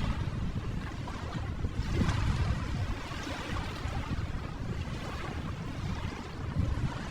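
Ocean waves: a continuous wash of surf with a low rumble, swelling about two seconds in.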